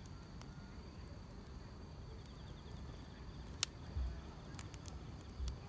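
Field crickets and other grass insects chirping steadily in a high, thin trill, with scattered sharp crackles from a burning wood fire. There is a louder pop about two-thirds of the way in, followed by two dull low thuds.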